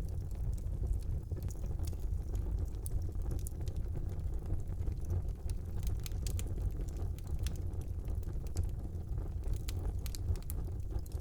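Wood fire burning in a brick fireplace: a steady low rumble of the flames with scattered sharp crackles and pops from the burning logs.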